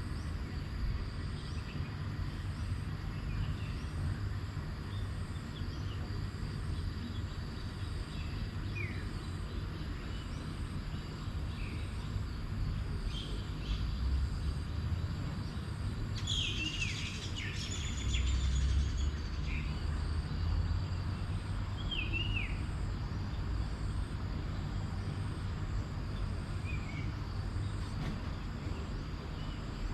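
Wild birds calling now and then with short, downward-sliding chirps, including a brief flurry of calls a little past the middle, over a steady low rumble and a faint steady high hum.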